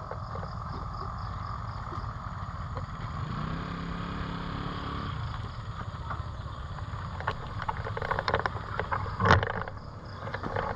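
Steady low wind rumble on the microphone of a moving bicycle ride. A brief engine-like hum rises about three and a half seconds in and fades under two seconds later. Scattered clicks and rattles follow near the end.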